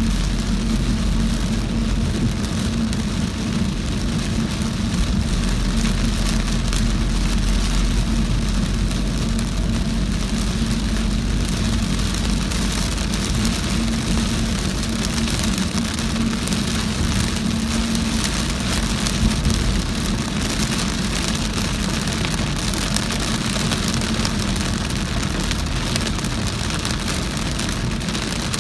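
Heavy rain beating on a moving car, with the steady drone of the car's engine and tyres underneath. The drone fades about two-thirds of the way in, leaving the hiss of the rain.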